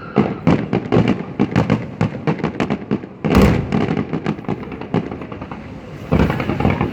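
Fireworks display: a rapid, continuous volley of bangs and crackles, with a heavy, deep shell burst about three seconds in and another loud burst near the end.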